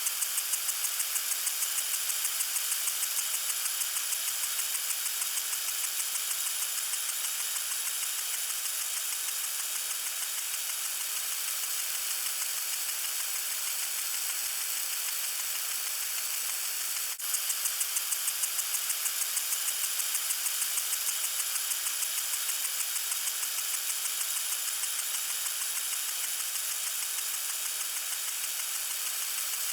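Lawn sprinkler spraying water: a steady high hiss with a fast, even pulsing, broken by a brief dip about 17 seconds in.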